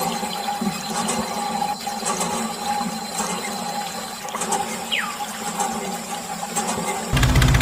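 Small motor-driven water pump on a DIY toy tractor running steadily, with water flowing and splashing. Just before the end, a louder, low, rhythmic engine-like sound cuts in abruptly.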